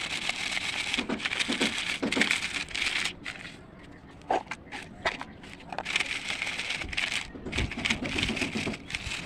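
Crisp crunching and crackling, something brittle being crushed, in two long stretches with a quieter pause of about two seconds between them.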